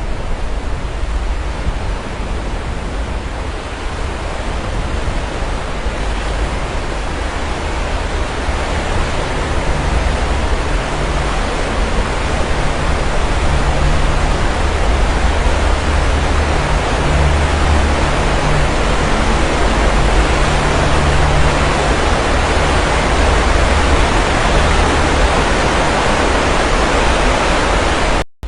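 Sea waves washing onto the shore: a continuous rush of surf with a deep low rumble, swelling over the first dozen seconds and then holding steady. The sound cuts out for an instant near the end.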